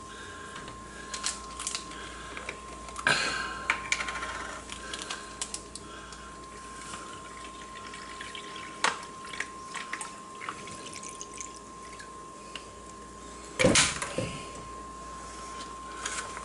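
Clicks and crinkling of plastic ration packets and the drink bag being handled while the lemon sports drink is readied. The handling is louder about three seconds in and again near the end, over a faint steady high tone.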